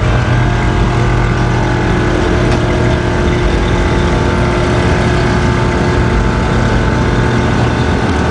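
A vehicle engine running steadily at a constant speed, its hum holding one pitch throughout.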